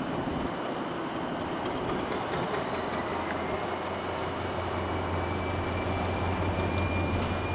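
Steam-hauled passenger train of Bhp coaches running on the rails: a steady rumble with a low hum that strengthens after a second or so and grows a little louder near the end.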